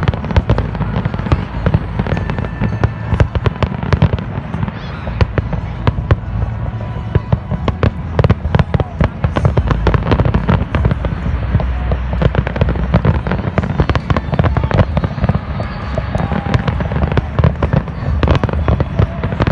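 Fireworks display: a dense, continuous barrage of sharp bangs and crackles over deep booms.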